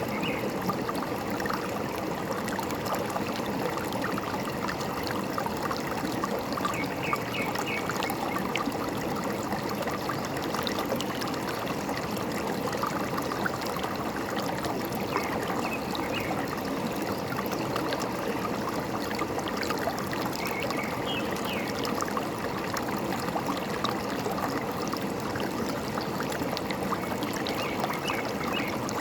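Forest stream trickling and gurgling steadily, with a bird's short chirps coming through every several seconds.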